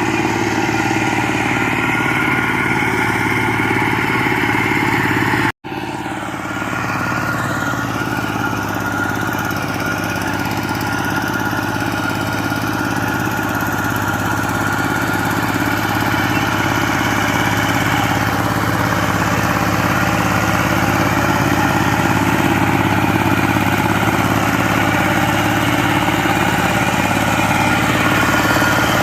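Engine running steadily, consistent with a power tiller's engine, cut off for an instant about five and a half seconds in and then running on, slowly getting a little louder.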